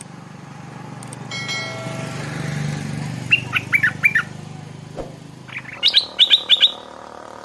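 Stripe-throated bulbul singing two short phrases of quick notes, about three seconds in and again near six seconds, the second phrase louder. A low hum runs underneath and stops just before the second phrase.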